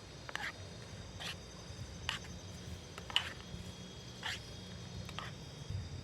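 Short animal calls repeating about once a second, over a steady high-pitched insect drone and a low rumble.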